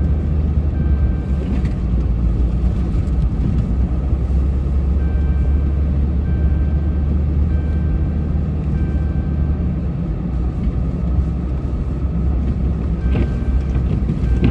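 Snow-plow truck's engine running steadily with a deep low rumble while it plows, with a faint high beeping that repeats in short stretches.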